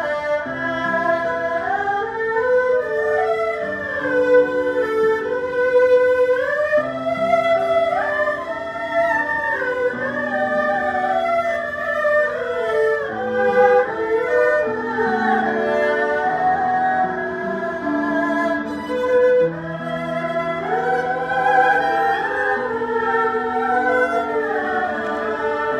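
Ensemble of erhu and zhonghu playing together: high bowed melody lines sliding between notes over held lower notes.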